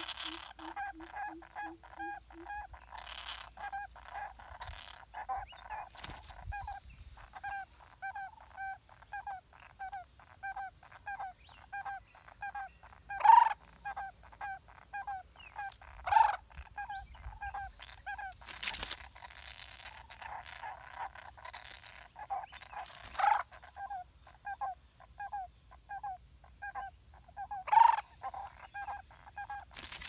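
A bird calling over and over, one short note repeated about three times a second, with a quicker run of lower notes in the first couple of seconds. Several loud, sharp sounds break in, the loudest about halfway through and near the end, over a faint steady high whine.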